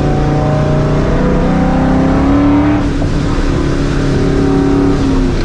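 Supercharged Ford Mustang GT 4.6-litre two-valve V8 with a Vortech supercharger and Borla ATAK exhaust pulling hard under acceleration. Its pitch rises for nearly three seconds, then drops and climbs again.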